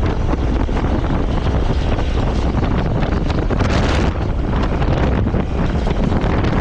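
Heavy wind noise buffeting the microphone on a moving motorcycle, a steady loud rush with the bike's running under it.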